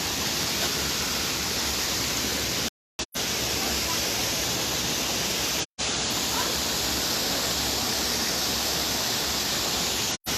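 Waterfall rushing steadily close by. The sound cuts out completely for a moment three times.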